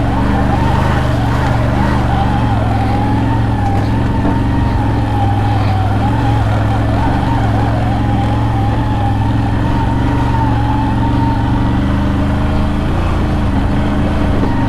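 CFMoto CFORCE 1000 Overland ATV's V-twin engine running steadily while riding along a trail, with a whine that wavers slightly in pitch.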